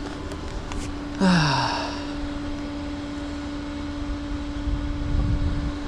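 A steady mechanical hum throughout, with a short sigh that falls in pitch about a second in.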